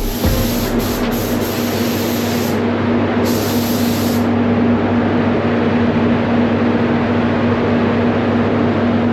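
Compressed-air paint spray gun hissing as it sprays, triggered in two passes early on and then held steady, over a constant low hum.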